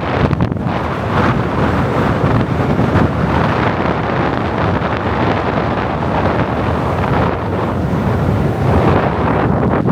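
Wind buffeting the microphone on a moving motorbike: a loud, steady rush of noise with no clear engine note.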